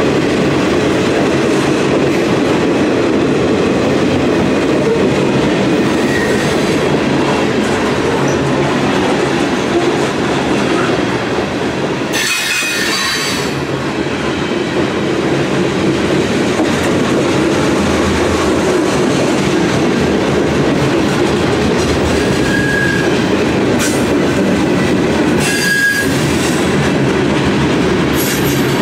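Freight train cars rolling past: a steady, loud rumble and clatter of steel wheels on rail. Short high wheel squeals ring out briefly about halfway through and twice more near the end.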